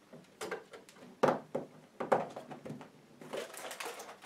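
Rummaging and handling noises: a series of short rustles and knocks, then a quick run of fine crackles near the end.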